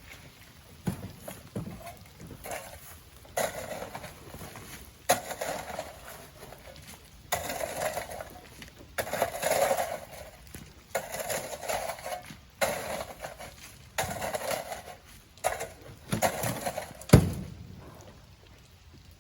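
Sand being shovelled by hand and tossed into a truck: a run of gritty scrape-and-pour strokes, one every second or two, with a sharp knock near the end.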